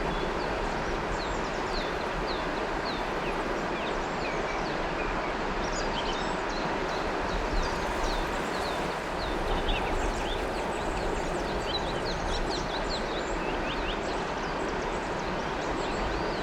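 Water flowing in a river, a steady rushing, with many small birds chirping over it, the chirping busier in the second half.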